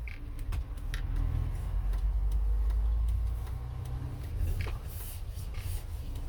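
Steady low road and engine rumble heard from inside a moving motorhome, with occasional short clicks and rattles from the cabin.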